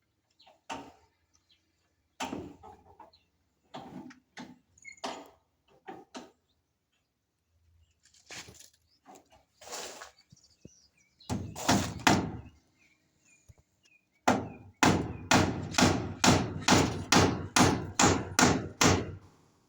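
Hand-tool work: scattered knocks and scrapes, then a run of about a dozen quick, even strokes, two or three a second, near the end.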